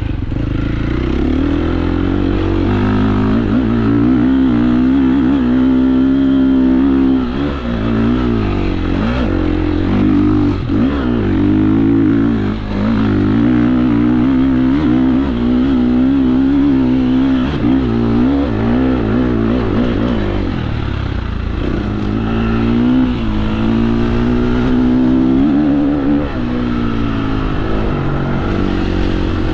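KTM 350 SX-F's single-cylinder four-stroke dirt bike engine under way, its revs rising and falling with the throttle and briefly dropping off a few times.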